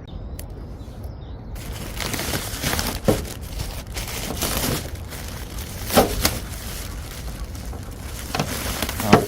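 Rustling and crinkling of things being handled and pulled about, with a few sharp knocks.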